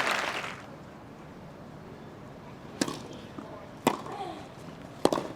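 Applause dying away, then a tennis rally: rackets striking the ball in a few sharp hits about a second apart, starting about halfway through.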